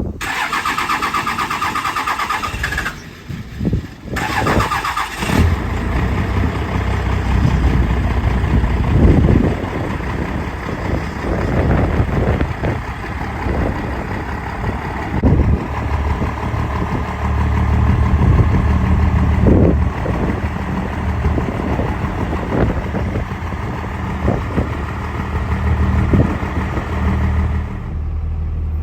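12-valve Cummins 5.9-litre inline-six turbodiesel cranked on the starter twice, catching about five seconds in, then running with a deep, steady idle whose level rises and falls at times.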